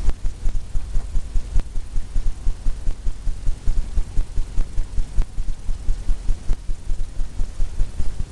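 A paintbrush tapping against a stretched canvas in a steady rhythm, about five dull thumps a second.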